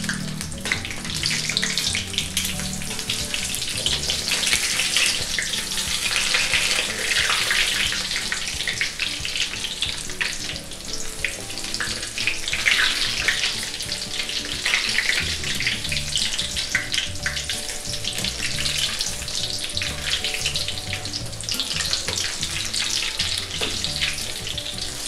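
Saba bananas frying in hot oil in a metal pan: a steady, crackling sizzle of the oil bubbling around the fruit.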